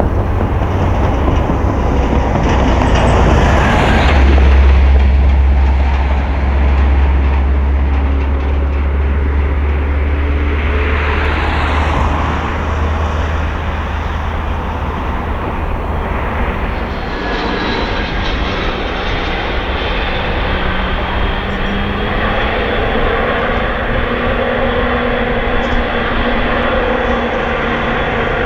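Jet airliner engines running loudly, a broad roar with a heavy deep rumble that eases off about two-thirds of the way through, leaving a steadier engine noise with faint whining tones.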